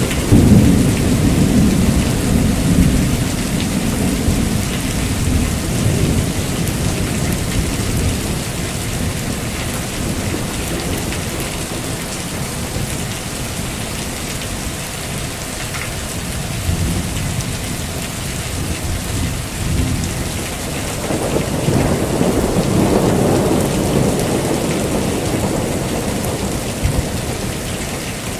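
Heavy rain falling steadily, with rolling thunder rumbling at the start and again in a second long roll about two-thirds of the way through.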